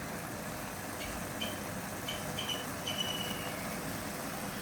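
Chicken and onion masala sizzling steadily in a frying pan, with short, slightly falling high chirps repeating several times over it.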